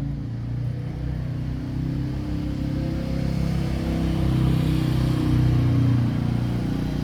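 An engine running steadily at a low pitch, growing a little louder from about four seconds in.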